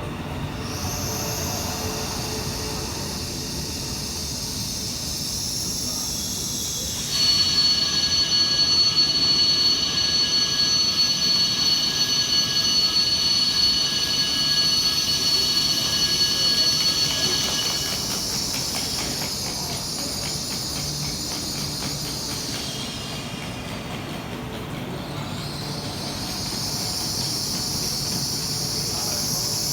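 A high-speed electric multiple-unit train pulling into a station. About seven seconds in, a steady high-pitched squeal starts suddenly and lasts about ten seconds. It gives way to a run of rapid clicking from the wheels.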